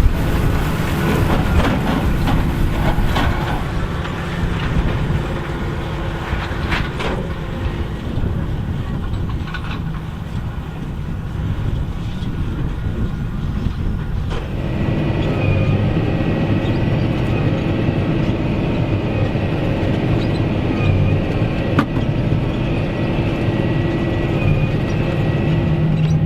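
John Deere 8530's six-cylinder diesel working steadily under load while pulling a Massey Ferguson 2190 large square baler, with the baler's mechanism clattering and knocking now and then. About halfway through the sound shifts to a fuller drone with a steady high whine added.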